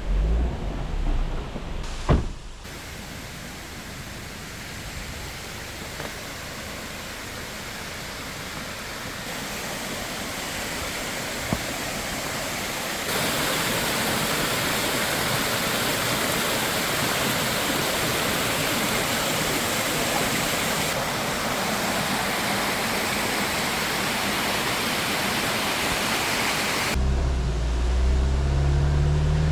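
Steady rushing water, a dense, even hiss that jumps louder in a couple of abrupt steps. A vehicle engine rumbles low at the start and again near the end.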